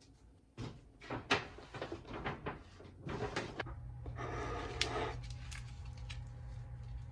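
Household handling sounds: a run of knocks and clacks, then about four seconds in a brief rushing noise and a steady low hum that starts and keeps going.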